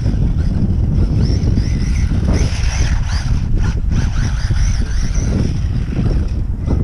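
Wind buffeting the microphone as a steady low rumble, with the faint high whine of a stock brushed-motor WLtoys RC short course truck rising and falling several times as it is throttled.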